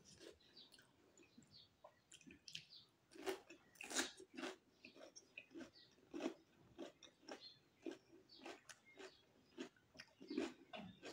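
Close-up chewing of raw cucumber: crunchy bites and wet mouth clicks, about two chews a second, loudest a few seconds in.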